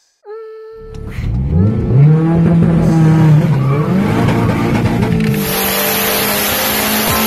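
Mitsubishi Galant VR-4's tuned turbocharged four-cylinder, on a Precision 5558 turbo and E85, accelerating hard: the revs climb, drop at a gear change about three and a half seconds in, and climb again. About five seconds in a loud steady rush of noise joins in over a steady engine note. A brief steady tone sounds at the very start.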